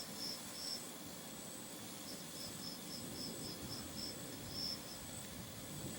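Crickets chirping in short, high-pitched pulses at about four a second, pausing for about a second near the start, over a faint low wind rumble.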